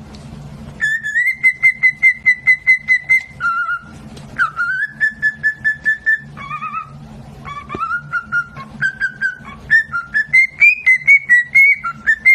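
A parrot whistling rapid runs of short notes, about five or six a second, stepping between a few pitches, with a steady low hum underneath.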